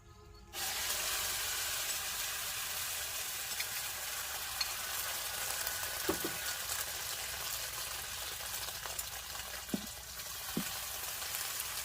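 Food frying in a hot pan: a steady sizzle that starts abruptly about half a second in, with a few light knocks later on.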